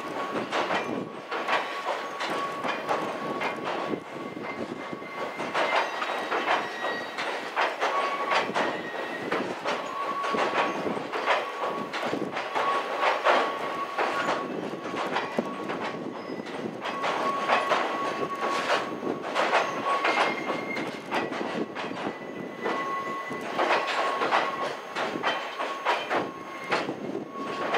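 Loaded cement tank wagons rolling slowly across a steel girder railway bridge: a dense, uneven clatter of wheels over the rail joints. A high steady squeal from the wheels comes and goes every few seconds.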